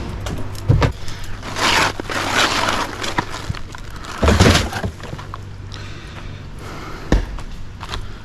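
Shed demolition noise: crunching, scraping spells of wood and debris being broken and moved, with several heavy thuds, the loudest about four seconds in. A steady low hum runs underneath.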